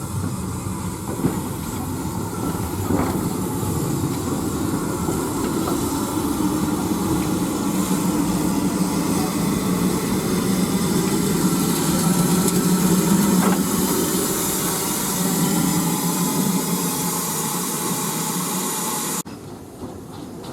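Steam train running on the line, a steady rumble with steam hiss. The sound cuts off abruptly near the end and a quieter sound follows.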